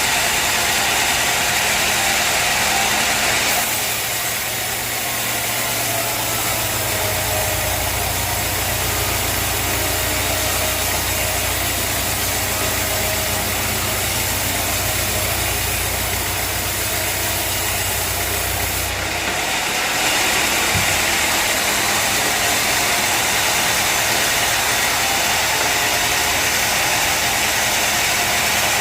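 Sawmill engine running steadily, with abrupt shifts in the sound about four and twenty seconds in and a deep hum between about six and twenty seconds in.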